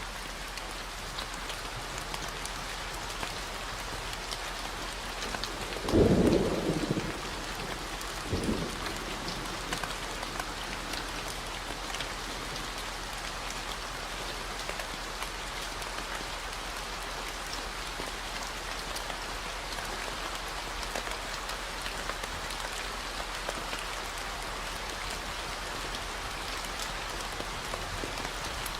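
Steady rain falling on a surface, over a constant low 40 Hz tone. A thunder clap about six seconds in is the loudest event, followed by a smaller rumble about two seconds later.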